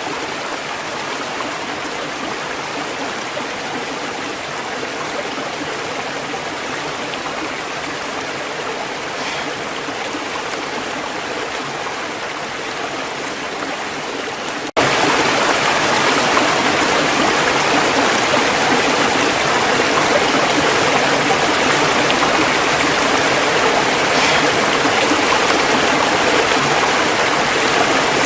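Steady rush of a waterfall's falling water. About halfway through it cuts abruptly to a louder stretch of the same kind of rush.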